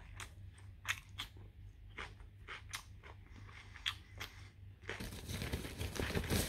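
Close chewing and biting of food, a string of short crunchy clicks, then a louder, denser rustling stretch near the end.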